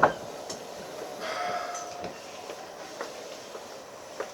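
Inside a Keikyu 1500-series field-chopper EMU running, heard from the cabin: a sharp knock right at the start, then a steady low rumble. Scattered clicks of the wheels over the rail follow, with a brief faint whine a little over a second in.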